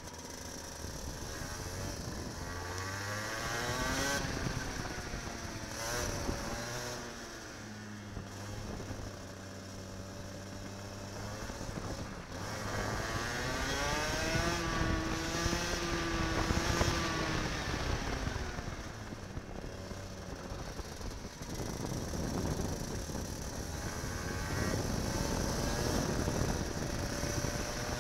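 Kart engine heard from on board, revving up and dropping back again and again as the kart accelerates and lifts through a lap; the pitch climbs for a few seconds at a time, then falls.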